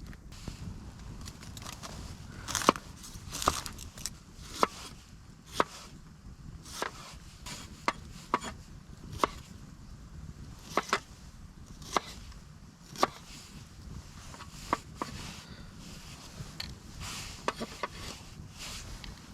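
Knife chopping on a cutting board: single, deliberate cuts about once a second, each a sharp knock, as vegetables are cut up for the soup.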